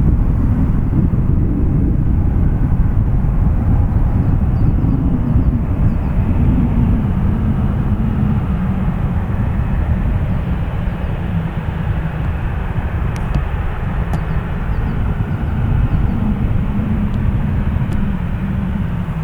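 Boeing 737's twin jet engines at taxi power: a steady, loud low rumble with a slowly wavering drone.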